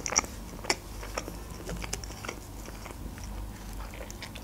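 A person chewing a mouthful of McChicken burger close to the microphone: soft, wet chewing with small mouth clicks, a few sharper ones in the first second.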